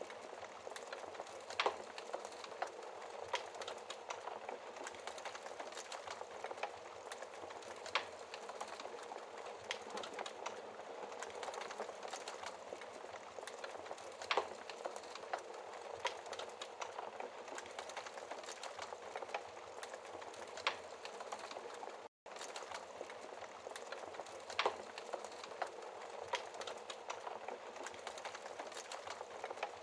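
Wood fire in a fireplace crackling, a steady hiss with scattered sharp pops every second or two. The sound cuts out for a split second about two-thirds of the way through.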